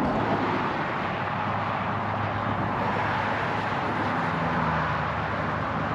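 Steady hiss of road traffic and tyre noise, with a low steady hum underneath.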